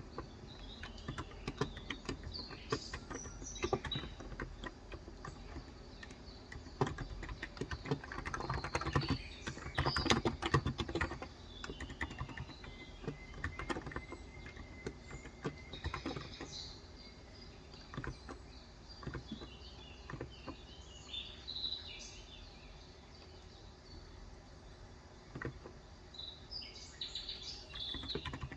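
Typing on a Cox Endeavour electrocapacitive (non-contact) tenkeyless keyboard with 35 g switches: irregular runs of soft key strokes, busiest about a third of the way in. Birds chirp in the background several times.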